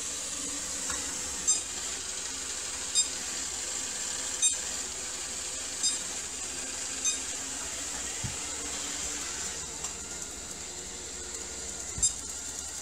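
ILIFE W90 cordless wet-dry floor cleaner running with a steady motor whir and high whine. A short click with a brief high ring sounds about every second and a half.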